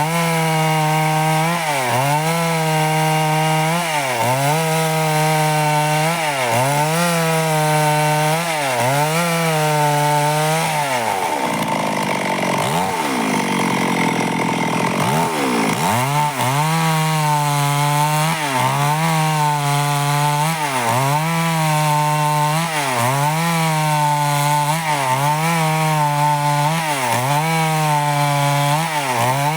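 Stihl chainsaw running at high revs while cutting wood into boards, its pitch dipping briefly about once a second as the chain bites. Around the middle the engine drops to a much lower pitch for a few seconds, then climbs back up to speed.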